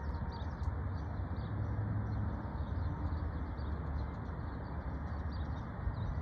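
Small birds chirping continually in the background over a steady low rumble.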